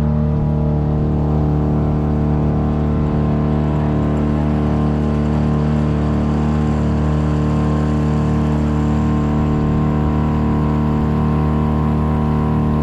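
Boat's outboard motor running steadily, an unchanging engine drone with no change in speed.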